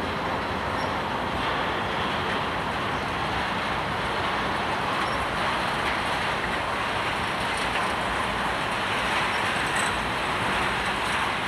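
Freight train rolling past, the steady noise of its cars' steel wheels running on the rails.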